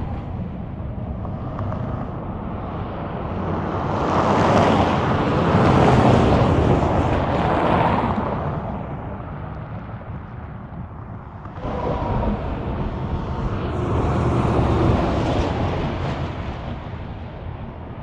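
Highway traffic passing by, with wind on the microphone: one vehicle swells and fades with a peak about six seconds in, and another comes in suddenly a little before the twelve-second mark and fades towards the end.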